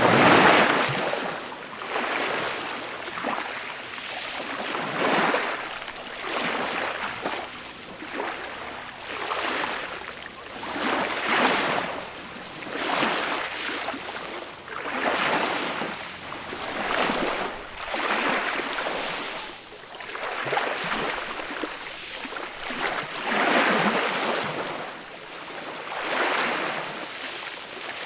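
Small, gentle sea waves breaking and washing on a beach, each swell of surf wash rising and fading every couple of seconds.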